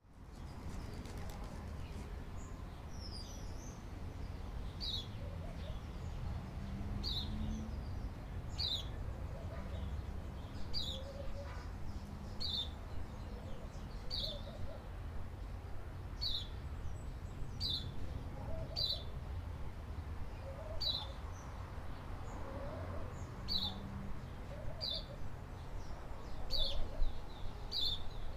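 Birds chirping: short, high chirps repeating about once a second, with fainter lower calls between them, over a steady low background rumble.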